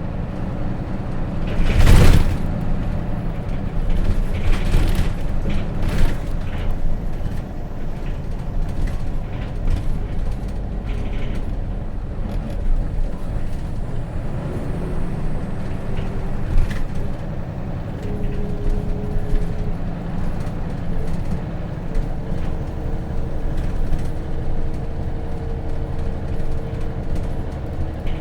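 Hino Rainbow RJ city bus heard from inside, its J08C diesel engine running as the bus drives, with a steady low rumble. About two seconds in comes a loud rush of noise lasting about a second, the loudest thing here, followed by a few smaller knocks and rattles.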